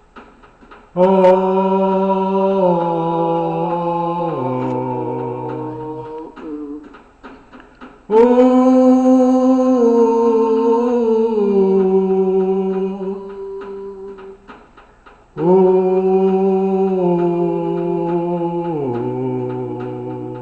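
Unaccompanied singing of long sustained vowels in a voice-therapy exercise: three long phrases, each held on one note and then stepping down in pitch.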